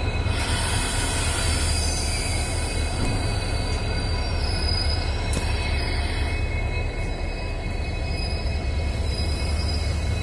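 Train on the move: a steady rumble of wheels on rail with a faint, steady high wheel squeal.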